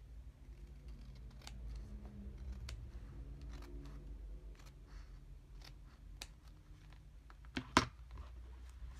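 Paper crafting at a desk: scraps of paper being handled and cut with scissors, light rustles and snips with one sharp click near the end.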